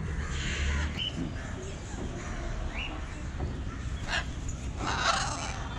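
Birds calling: a few short chirps, then a loud harsh squawk about five seconds in, over a low steady rumble.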